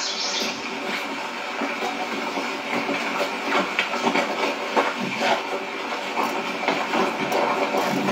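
Steady rain falling with a hiss, with irregular pattering of drops.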